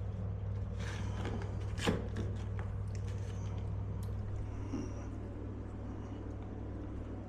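Steady low electrical hum, with light rustling and one sharp click about two seconds in.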